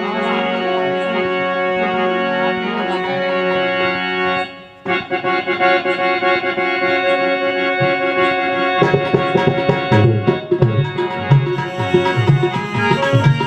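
Harmonium holding a steady chord, then after a short break taking up a rhythmic tune with hand-drum beats joining in, the drum beats growing strong about nine seconds in.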